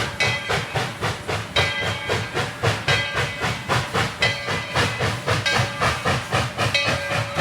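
Coal-fired steam locomotive chuffing steadily, its exhaust beats coming about four times a second, with a hiss of steam underneath.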